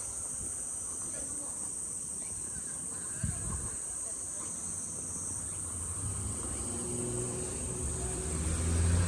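A steady, high-pitched chorus of summer insects shrilling. There is a short knock about three seconds in, and a low engine hum grows louder in the last few seconds.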